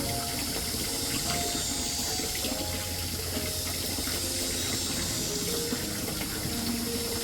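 Water running steadily, as from a tap.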